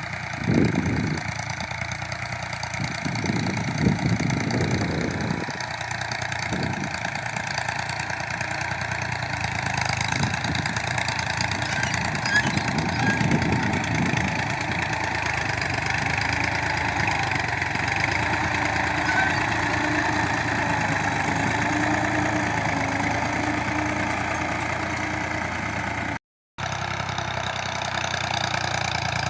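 Tractor engine running steadily, with a few low surges in the first several seconds; the sound drops out briefly near the end at an edit cut.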